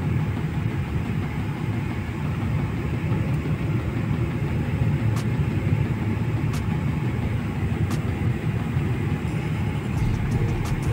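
Steady low rumble of a running vehicle, with a few faint clicks around the middle.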